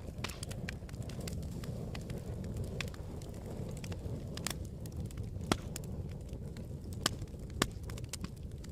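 Campfire crackling: a steady low rumble of burning with irregular sharp pops and snaps, a few louder pops in the second half.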